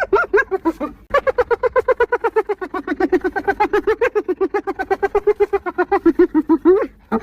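Spotted hyena laughing: a fast run of short, pitched, yelping notes, about eight a second, broken by a short pause about a second in and ending on a rising note near the end.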